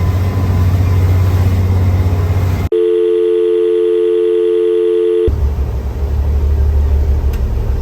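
Low steady drone of a ferry's engine, cut off abruptly nearly three seconds in by a clean, steady electronic tone lasting about two and a half seconds with no background behind it; the engine drone then returns.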